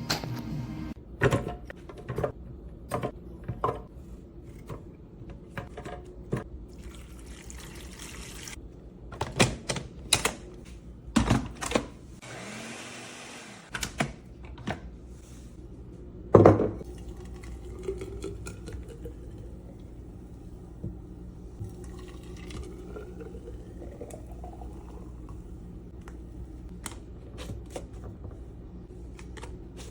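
Kitchen handling sounds while preparing a drink: scattered clicks and knocks of containers and ingredients, with liquid poured in a couple of short hissing stretches.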